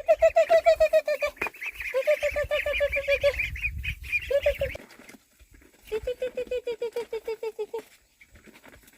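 Ducks calling in quick runs of short, repeated quacks. There are four runs: one at the start, one about two seconds in, a brief one past four seconds, and a longer one from about six seconds in.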